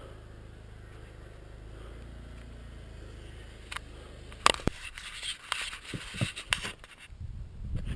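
A low steady hum. About four and a half seconds in it gives way to a snow shovel knocking and scraping through snow, a few sharp hits among stretches of scraping.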